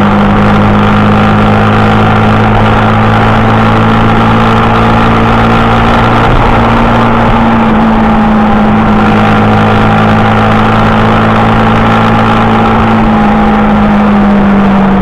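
Motorcycle engine running steadily while riding, over a dense rushing noise. The engine note lifts slightly about halfway through and falls near the end.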